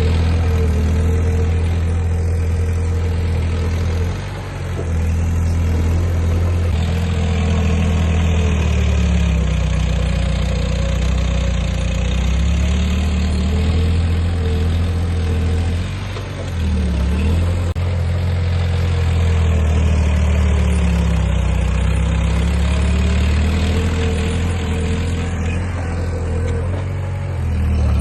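Heavy earthmoving machine's diesel engine running under varying load, its pitch rising and falling, with short easings about four seconds in and again midway.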